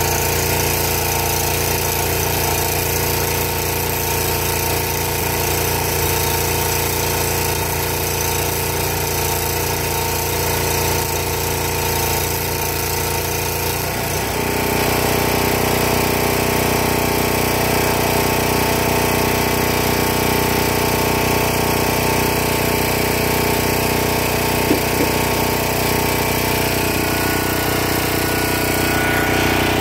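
Engine-driven welding generator running steadily close by, its engine note changing to a different pitch about halfway through.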